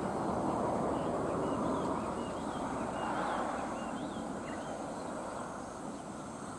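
Steady rushing rumble of a departing locomotive-hauled train, slowly fading away, with a small bird chirping a few times in the middle.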